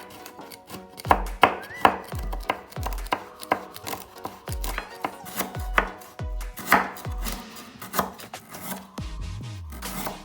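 Knife chopping on a cutting board: a run of sharp, irregular strokes, over background music with a steady beat.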